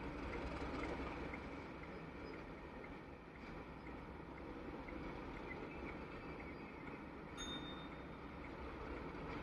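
Faint, steady rumble of a distant diesel train.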